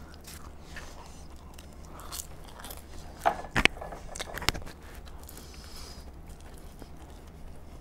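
Close-miked eating sounds: quiet chewing and biting of food, with a few sharp clicks, one a little past three seconds in and another about four and a half seconds in.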